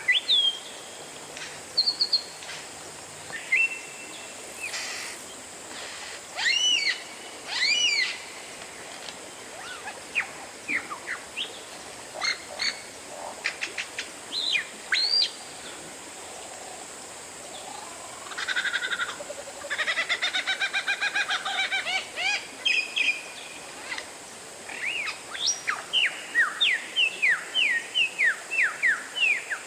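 Oriental magpie-robin (kacer) singing a varied song of clear whistles, quick sweeps and short trilled phrases, with a fast run of falling notes near the end.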